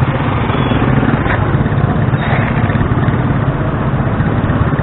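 Motor scooter's small engine running steadily while riding in town traffic.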